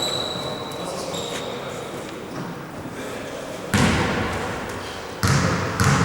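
Basketball bouncing hard on a gym floor in an echoing hall, three loud bounces in the second half. Two brief high-pitched squeaks come near the start.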